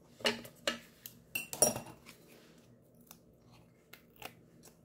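Small hard craft tools and pieces being handled on a tabletop: several sharp clicks and taps in the first two seconds, then a few fainter ticks.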